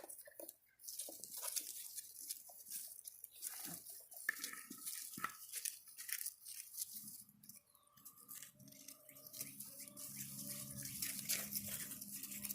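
Border Collie puppies scuffling and chewing close to the microphone, with a few short squeaky yips near the middle. A low steady drone comes in about halfway through and carries on.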